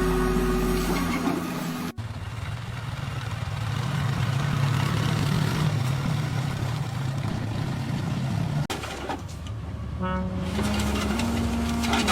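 Tractor running with a steady low engine rumble, cut off abruptly a little before the end, followed by a few short pitched tones that step up and down.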